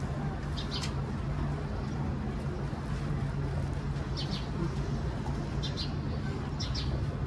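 Small birds chirping briefly four times, high and short, over a steady low hum and background noise.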